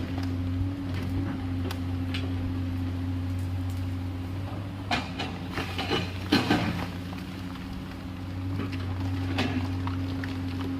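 Komatsu PC210LC excavator's diesel engine running at a steady pitch, with a cluster of knocks about five to six and a half seconds in, after which the engine note wavers briefly.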